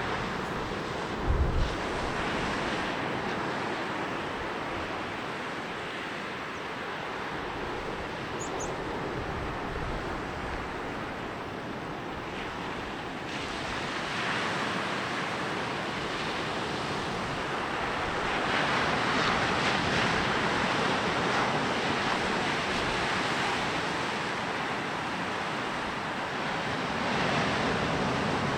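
Sea waves rolling in and breaking on a beach: a steady wash of surf that swells louder a few times as waves come in. A brief low thump sounds about a second in.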